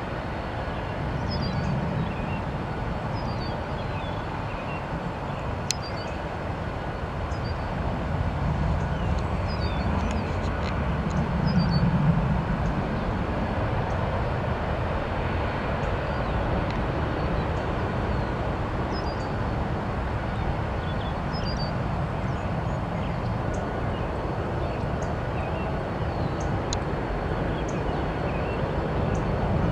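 Steady outdoor rumble and hiss of airport ambience, swelling a little around twelve seconds in. A faint high chirp repeats every couple of seconds.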